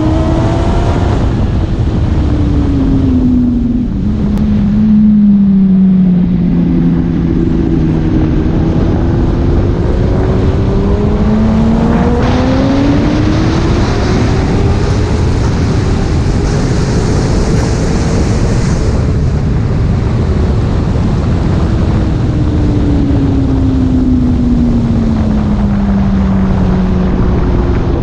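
Yamaha R1 sportbike's inline-four engine heard from on board under heavy wind rush. Its pitch falls over the first few seconds, climbs steadily for about ten seconds of acceleration down the straight, falls again for several seconds as the bike slows into the next corner, and starts to rise near the end.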